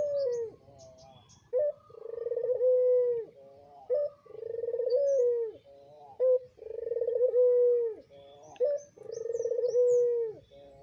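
Puter pelung, a domestic Barbary dove, cooing: four coos in a row, each a short rising note followed by one long drawn-out coo, repeating about every two and a half seconds.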